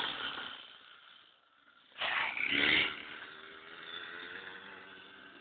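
Small motorbike engine dying away as it rides off. About two seconds in there is a short, sudden burst of noise, and then the engine is heard faintly with a steady note.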